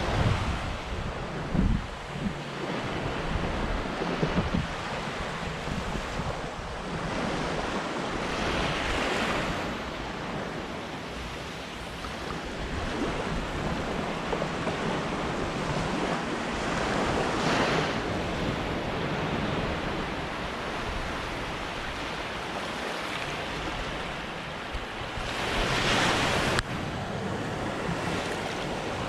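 Sea waves washing up on the beach, a steady surf hiss that swells three times, loudest near the end. Wind rumbles on the microphone in the first few seconds.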